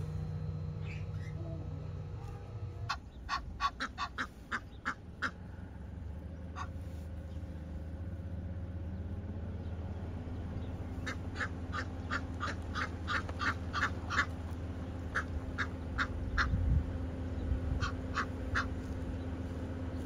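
A bird giving runs of short, sharp, quacking calls, several a second, in one burst a few seconds in and in several more bursts through the second half, over a steady low hum.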